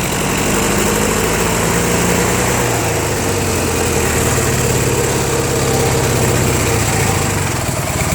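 Small engine of a homemade rat rod tractor running steadily; its note shifts about three seconds in and again near the end.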